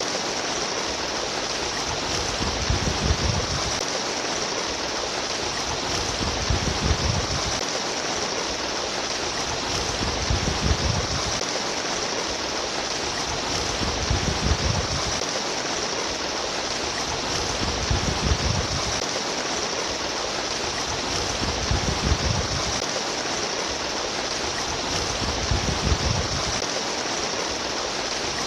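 Babbling stream water running steadily, with a deeper surge in the flow about every four seconds.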